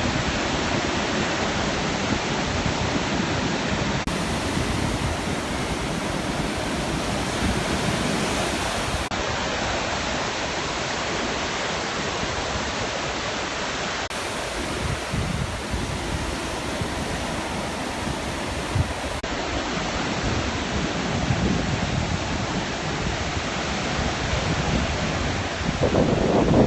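Heavy sea surf, a continuous steady rush of big waves breaking near the shore.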